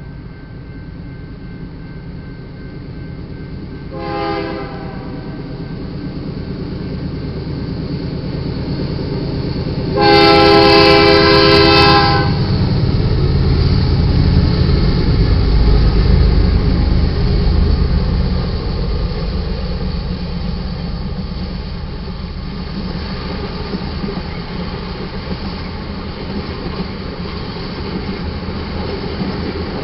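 Approaching diesel freight train led by GE locomotives. The horn gives a brief toot about four seconds in, then a loud, long blast around ten seconds in. The locomotives' engines rumble heavily as the lead units pass, followed by the steady rolling and clickety-clack of freight cars going by.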